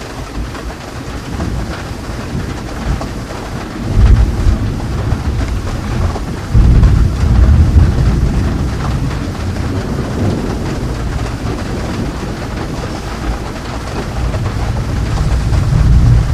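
Thunderstorm: steady rain with deep rolls of thunder, one starting about four seconds in, the loudest coming in about six and a half seconds in, and another building near the end.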